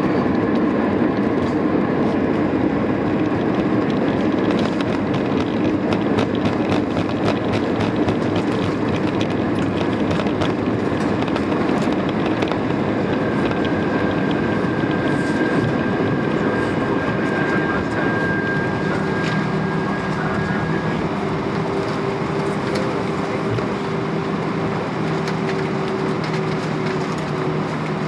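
Cabin noise of an Airbus A320 rolling on the ground after landing: a steady rumble from the engines, the airflow and the landing gear, with many small knocks as the wheels run over the pavement, slowly easing. Steady whining tones join about halfway through.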